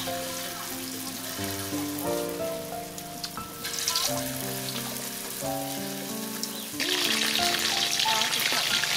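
Battered food deep-frying in a wok of hot oil, a steady sizzle that grows clearly louder about seven seconds in. Background music with held, sustained notes plays along with it.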